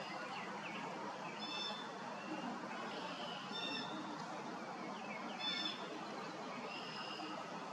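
Songbird calling with short, high chirps repeated about every two seconds, over a steady outdoor background hiss.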